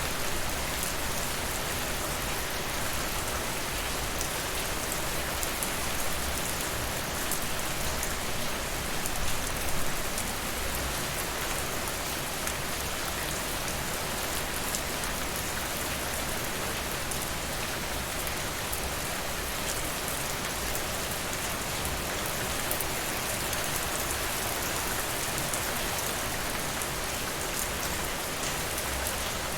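Steady rain falling, with scattered sharp clicks and crackles from a wood fire in a fireplace, a little louder about a third of the way in.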